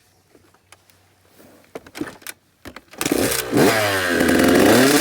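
A few short knocks, then a dirt bike engine catches about three seconds in and is revved, its pitch rising and falling.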